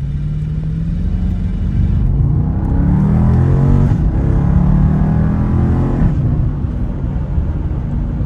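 Car engine with the muffler deleted, accelerating hard: the revs climb and drop back several times as it shifts up through the gears, then fall away as the throttle is released near the end.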